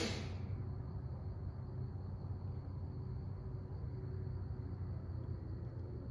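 Backyard ambience: a steady insect drone, likely crickets, runs high over a constant low rumble. A brief noisy rustle right at the start is the loudest moment.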